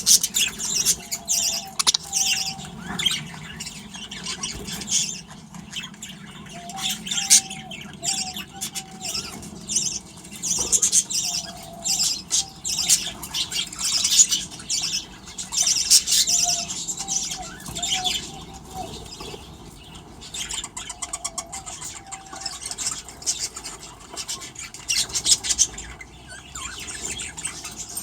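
A flock of budgerigars chirping and chattering continuously, many short high calls overlapping, with lower short notes now and then.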